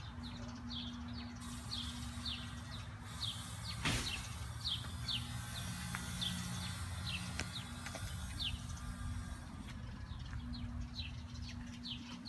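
A bird calling over and over in short, falling chirps, about two a second, over a steady low rumble. A single sharp knock sounds about four seconds in.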